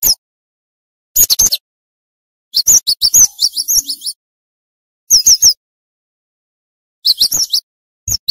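Cinereous tit (gelatik batu) singing rapidly: short phrases of quick, high, down-slurred notes, repeated with pauses of about a second between them.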